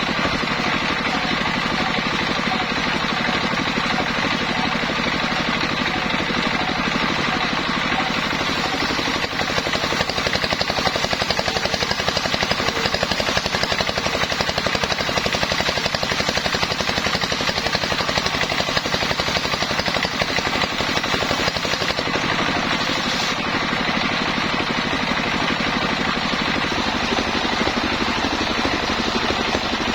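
Engine-driven homemade sawmill running steadily, its engine and saw making a continuous loud mechanical din that grows a little louder about nine seconds in.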